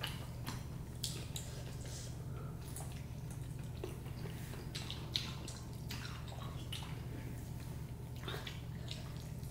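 People eating: scattered wet mouth clicks and smacks of chewing, with one sharper click about five seconds in, over a steady low hum.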